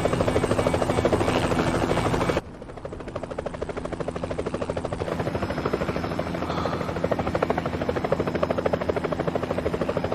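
Helicopter rotor chopping in flight, a fast, even beat. About two and a half seconds in it drops suddenly to a quieter level, then slowly grows louder again.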